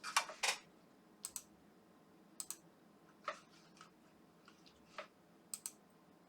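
Small button clicks, mostly in quick pairs about a second apart, after two louder knocks at the start.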